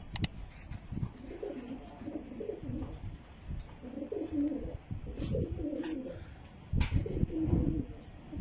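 Jacobin pigeons cooing in several low, rolling bouts, with a few sharp clicks in between.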